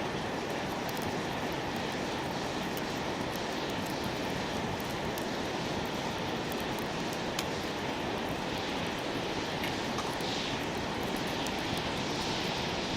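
Wood campfire burning: a steady low rushing sound with many small crackling pops, a few louder pops near the end.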